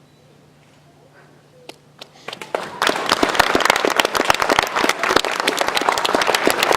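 Audience applause: a few scattered claps about two seconds in, quickly swelling into full, loud clapping.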